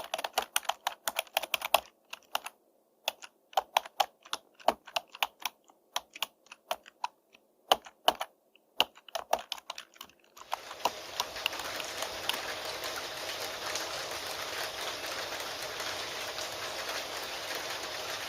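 Typing on a computer keyboard: irregular runs of keystroke clicks with short pauses. About ten seconds in, the typing stops and steady rain comes in and carries on.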